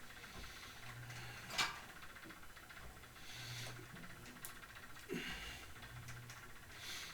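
A person breathing in a slow, paced rhythm during an exercise, a soft hissing breath about every two seconds. A single sharp click about a second and a half in.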